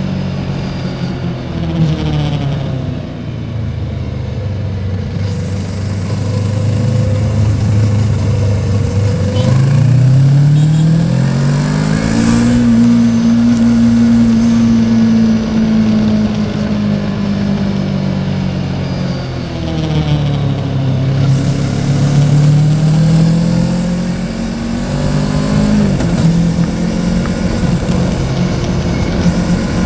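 Yamaha Tracer 700's parallel-twin engine under way, its revs falling and rising with throttle and gear changes. The engine note climbs about ten seconds in, drops at about twelve seconds as if on a gear change, holds steady, then eases off and builds again.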